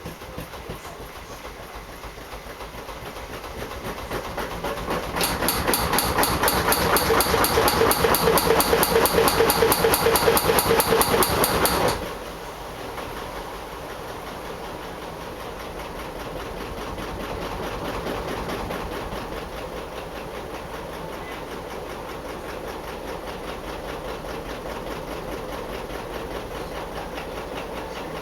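Drum-type washing machine running with an abnormal noise that has come back after a repair: a fast, regular pulsing mechanical noise. It grows louder over the first few seconds, is loudest for about seven seconds, then drops suddenly about twelve seconds in to a quieter, still rhythmic running sound.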